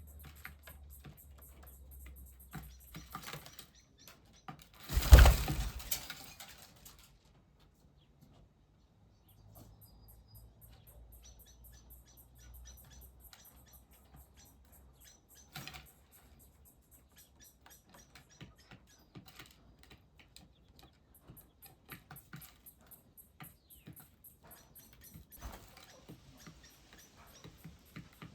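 Birds at a feeder and bird bath: scattered light ticks and patters, with one loud rushing burst lasting about a second and a half, about five seconds in, and smaller ones later.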